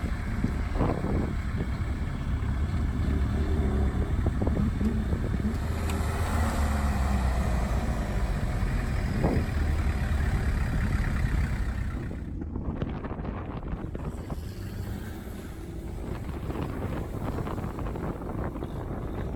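A vehicle driving, with a steady low engine and road rumble and wind buffeting the microphone. The sound drops in level and changes about twelve seconds in.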